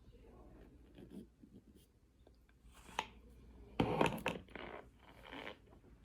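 Cornstarch being bitten and chewed: a few irregular crunchy, scratchy bursts, loudest about four seconds in.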